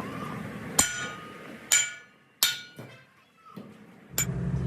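Four hammer blows on steel, spaced unevenly, each followed by a short metallic ring.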